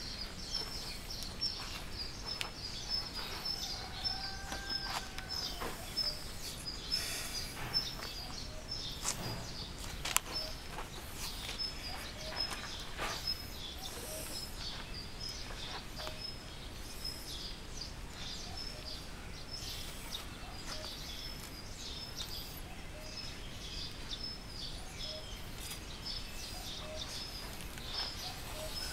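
A bird repeating a short, high chirp about twice a second over quiet outdoor background noise, with scattered faint clicks and one sharper knock about ten seconds in.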